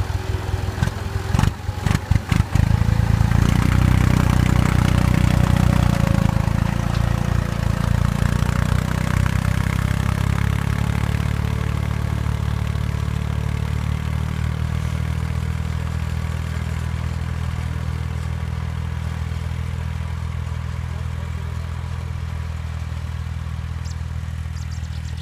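Tractor engine running steadily, drawing a pneumatic two-row seed planter, after a short burst of clattering knocks about two seconds in; the engine sound slowly fades.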